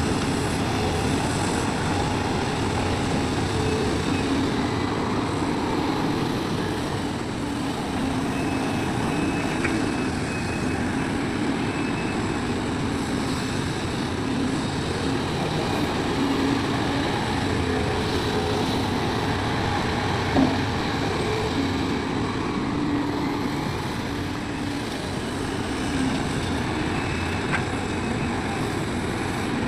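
Large excavator's diesel engine running steadily as it works, with one short sharp knock about two-thirds of the way through.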